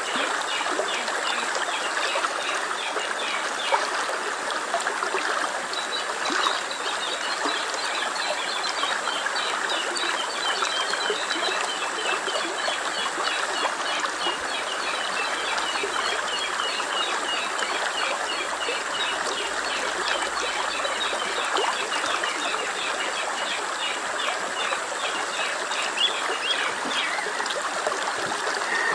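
A stream trickling steadily over stones, with small birds chirping rapidly and repeatedly above it; the chirping stops near the end.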